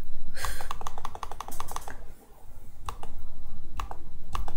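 Clicking on a computer keyboard: a quick, even run of about ten clicks a second for the first two seconds, then a pause and slower scattered clicks.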